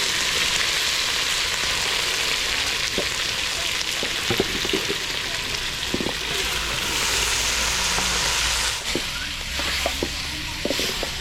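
Food sizzling as it fries in a hot cooking pot, a steady hiss, with a few short knocks scattered through it.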